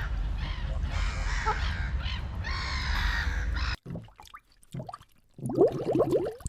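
Animal calls: repeated harsh, caw-like calls over a low rumble that cut off suddenly after almost four seconds. Near the end comes a quick run of short rising calls.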